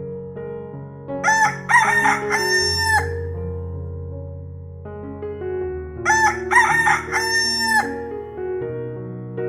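An animal calling twice, each call about two seconds long with several rising and falling pitched parts, over soft piano music.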